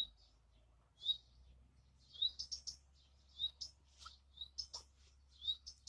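A songbird chirping repeatedly: short high chirps about once a second, with quicker, higher twittering notes between them.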